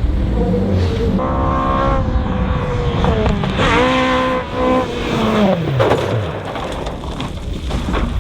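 Rally car engine at high revs, held flat out, then rising again; about five seconds in its note drops steeply as the car passes and goes away.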